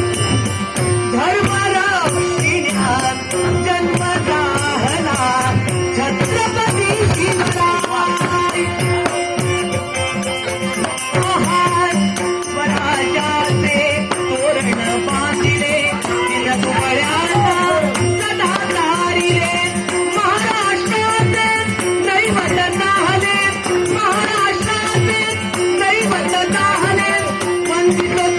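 Male singer performing a Dashavatar folk-theatre song over a steady held drone note and rhythmic percussion.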